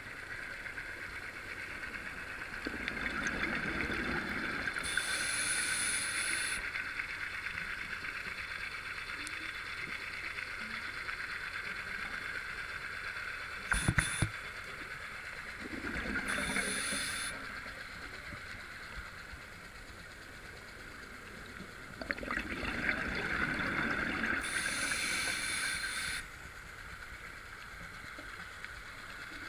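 Scuba regulator breathing underwater: three breaths about ten seconds apart, each a spell of bubbling with a high hiss. A sharp knock comes about halfway through.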